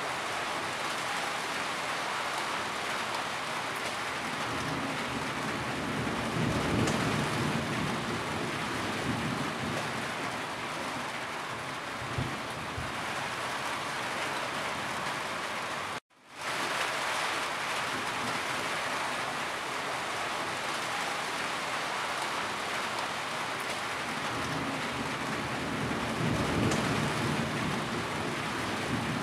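Heavy rain falling steadily, with a deeper low rumble swelling up twice, about a quarter of the way in and again near the end. The sound cuts out for a split second just past halfway, then resumes.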